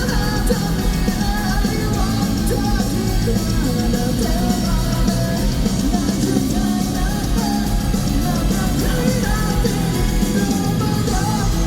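Rock band playing live, a lead vocalist singing over guitars, bass and drums, recorded loud and full from within a concert arena's audience.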